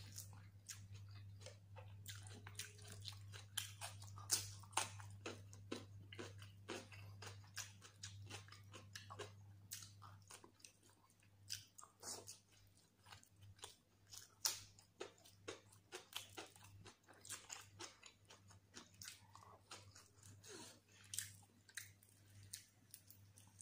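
Close-miked chewing of fried carp: soft wet mouth clicks, lip smacks and small crunches, several a second and uneven in loudness, with a few sharper ones standing out. A steady low hum runs underneath.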